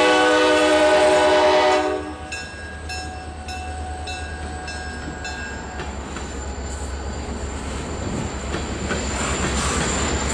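Diesel locomotive air horn sounding a chord for about two seconds, then cutting off. Two GP35-3 diesel locomotives keep rumbling as they throttle up to get a train moving, growing slowly louder.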